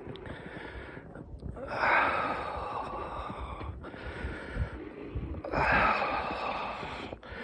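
A person breathing out heavily twice, each breath lasting about two seconds, close to the microphone.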